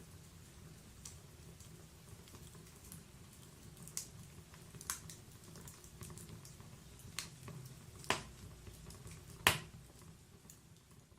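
Logs burning in a wood fireplace: scattered sharp crackles and pops over a low steady rumble of the flames, with the loudest pop about nine and a half seconds in.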